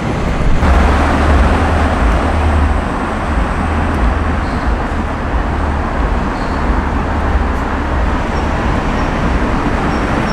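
Busy city street traffic: a steady mix of passing vehicle engines and tyre noise over a heavy low rumble.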